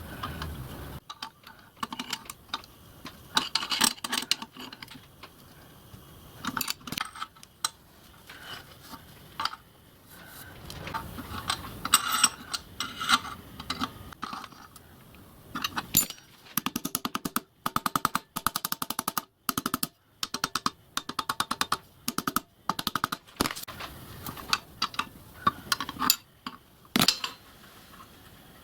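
Metalwork in a workshop: a long series of sharp clicks and taps of steel parts and hand tools, with runs of rapid, evenly spaced ticking in the second half.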